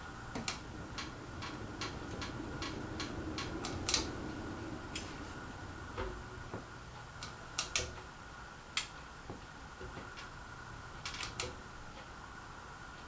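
Casablanca Panama 2 ceiling fan running in demo mode: a dozen or so sharp, irregularly spaced clicks over a steady faint hum and a thin steady whine.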